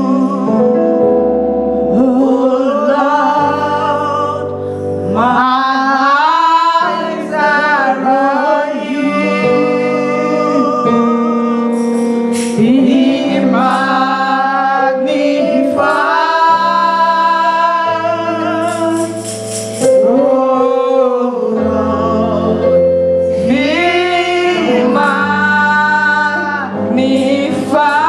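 Church choir singing a slow gospel worship song, voices holding long drawn-out notes over sustained chords.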